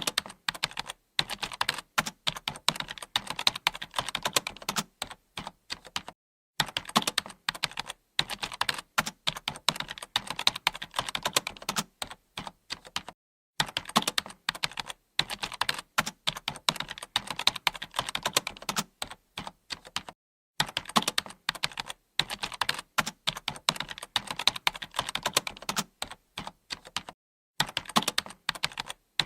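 Typing on a computer keyboard: fast, steady keystroke clicks in long runs, with a brief pause about every seven seconds.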